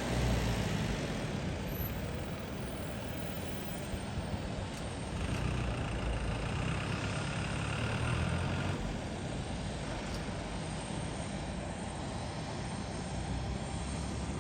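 Steady engine noise of a vehicle or aircraft on the move, with a low rumble throughout, growing a little louder and brighter for a few seconds about five seconds in.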